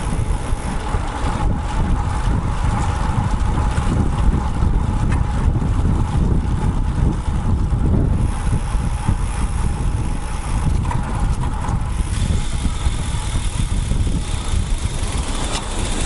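Wind buffeting the microphone of a bicycle-mounted action camera during a road-bike ride, with steady road and traffic noise underneath. A faint, steady high-pitched whine joins about three quarters of the way through.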